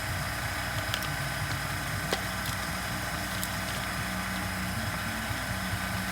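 A steady low hum runs throughout, with a few light clicks from small parts being handled during reassembly.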